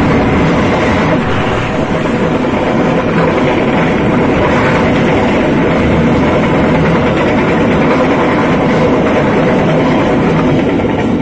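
Passenger train passing close by at speed, a diesel locomotive going by first and then a string of coaches. It makes a loud, steady rumble of wheels on the rails.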